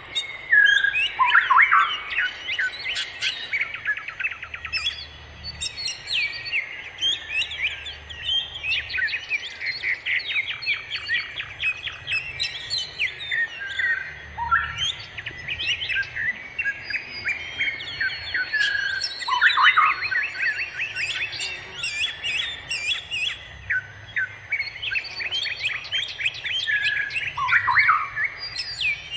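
Small songbirds chirping and trilling in quick, overlapping series throughout, with occasional high thin whistled notes.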